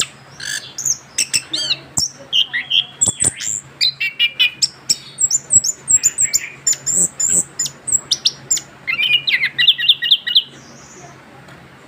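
Young chestnut-capped thrush (anis kembang) singing a continuous, rapid song of varied whistles, slurred notes and chattering clicks, breaking off about a second before the end.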